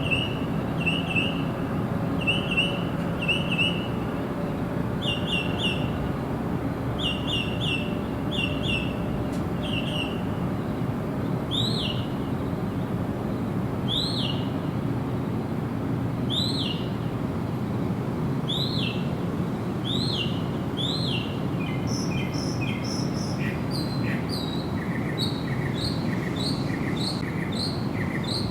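Birds singing over a steady rushing background: first short chirps in pairs and threes, then single arched whistled notes about every two seconds, and in the last seconds a quicker run of short notes about two a second.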